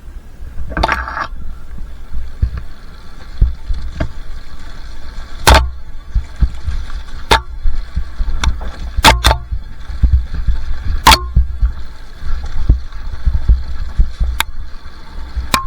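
Two-stroke dirt bike riding a rough trail: a steady low rumble with the engine faint underneath, broken by sharp clicks and knocks every second or so.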